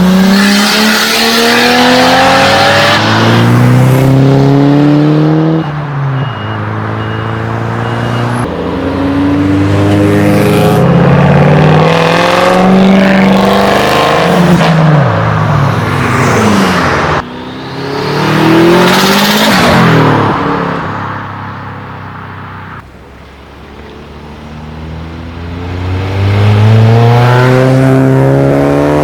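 Modified cars accelerating hard away one after another, engines and exhausts revving up with rising pitch and dropping back at each gear change. About seventeen seconds in one cuts off suddenly; the sound falls away for a few seconds before another car revs up near the end.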